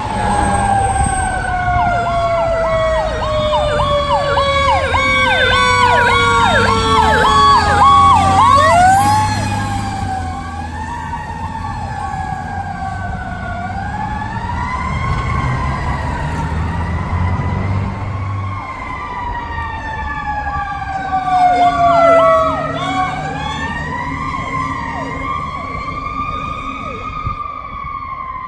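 Fire truck sirens on a 2005 Pierce Arrow XT tiller ladder truck responding: one siren falls slowly in pitch over several seconds, twice, while an electronic siren chirps rapidly over it, with a rising and falling wail between, over a low diesel engine rumble that fades about two-thirds through.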